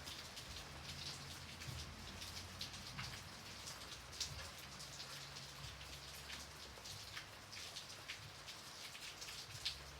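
Light rain falling steadily, with many individual drops pattering close by. A low rumble sits underneath.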